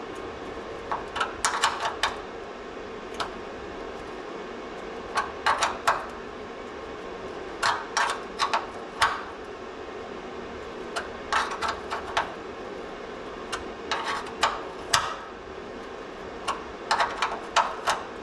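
Sharp metallic clicks and taps in short clusters of three to five, about every two to three seconds, from hand tools working on a broken bolt. A steady hum runs underneath.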